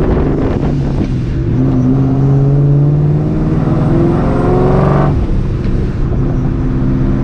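Vortech-supercharged 4.6-litre two-valve V8 of a 2004 Ford Mustang GT accelerating under load. The engine note climbs steadily for about four seconds, then the revs drop abruptly a little after five seconds in and settle to a steadier, lower note. A shorter drop in revs comes about a second in.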